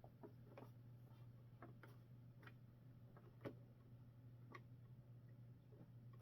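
Faint, irregular light clicks and taps of small plastic model parts being handled and fitted, over a steady low hum; the sharpest click comes about three and a half seconds in.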